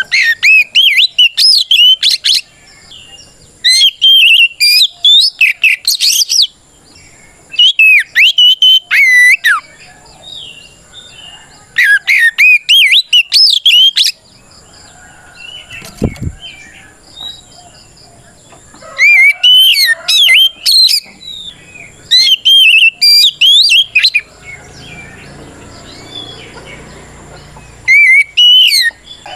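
Oriental magpie-robin singing loud, rapid whistled phrases in bursts of about two seconds with short pauses between. This is the full challenge song of a bird calling out a rival.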